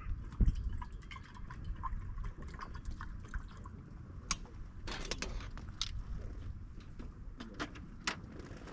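A few sharp clinks and knocks, like small hard objects being handled, over a steady low rumble, with faint honking calls of ducks or geese in the first few seconds.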